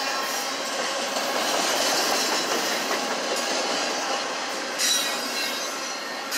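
Freight cars rolling past, with a steady rumble and rattle of wheels on rail and high-pitched wheel squeal. A sharper squeal comes about five seconds in.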